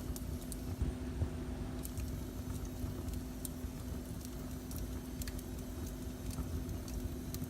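Wood fire burning in a fireplace: a steady low rumble of the flames with scattered sharp crackles and pops at irregular moments, over a steady low hum.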